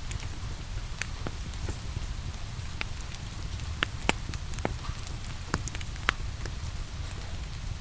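Steady rain hiss with a low rumble, mixed with a wood fire crackling in a fireplace: irregular sharp pops, a few louder ones around the middle.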